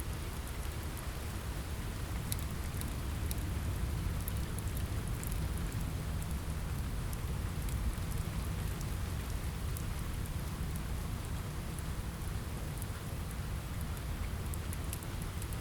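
Steady rain falling against a window, with a deep rumble underneath and scattered sharp crackles and pops from a wood fire.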